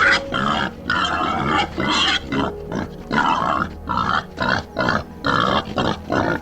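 An animal giving a rapid series of short, harsh calls, about two a second.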